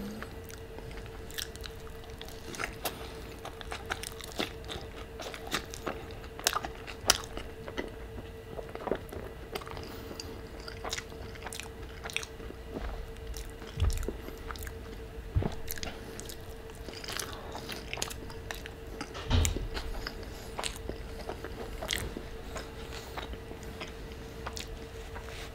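Close-miked chewing of a mouthful of al pastor burrito with guacamole: many wet mouth clicks and some crunching, with a few low thumps. A faint steady hum runs underneath.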